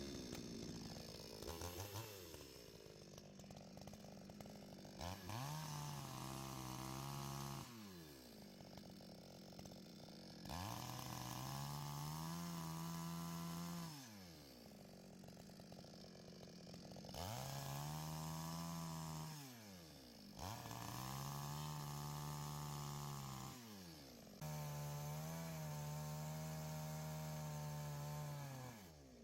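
Chainsaw bucking firewood into short fireplace lengths. It revs up, holds high through a cut of a few seconds, then drops back to idle, about five times over.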